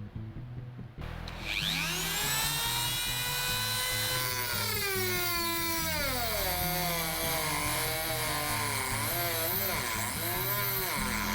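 Electric power drill spinning up to speed with a rising whine, its pitch sagging and wavering as the bit bites into a copper rivet in the wooden hull; it stops near the end and spins up again. Background music runs underneath.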